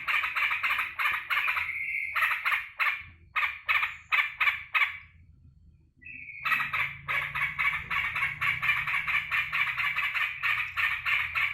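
Sooty-headed bulbul calling in a fast, continuous chatter of repeated notes, which breaks off for about a second midway and then starts again just as fast. It is the bird's excited greeting when its keeper comes home.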